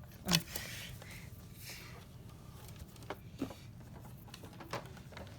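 Toy cars being handled: a few light clicks and taps, the sharpest about a third of a second in, with more around three seconds and near five.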